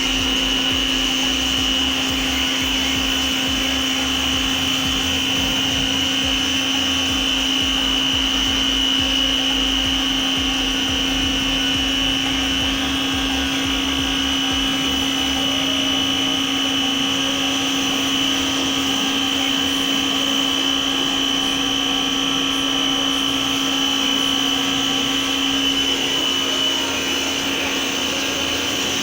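Tecna electric pressure washer running steadily, its motor giving a constant high whine over a lower steady hum.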